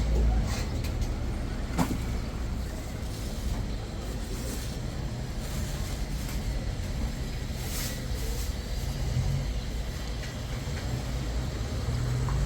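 A motor vehicle's engine running steadily with road noise, and a sharp click about two seconds in.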